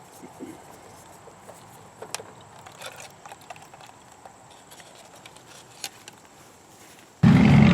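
Faint, scattered clicks and light taps of small metal parts or tools being handled. Near the end a loud, steady machine sound with a low hum and a hiss starts abruptly.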